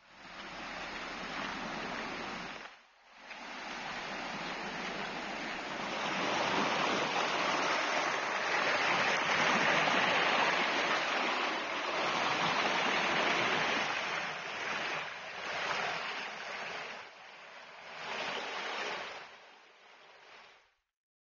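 Fast-flowing river water rushing over rocks, a steady hiss that swells and eases, broken briefly about three seconds in and fading out near the end.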